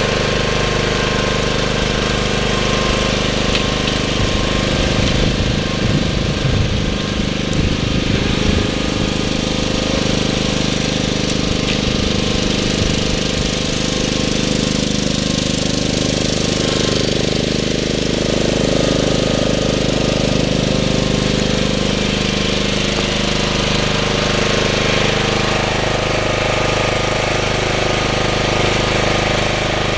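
Lawn tractor engine running at a steady speed while the tractor plows snow.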